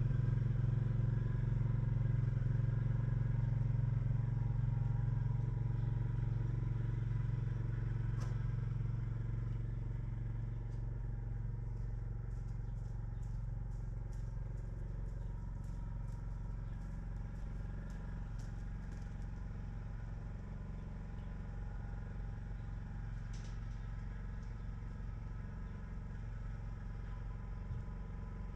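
A motor running steadily with a low hum that slowly eases a little, with faint light clicks partway through.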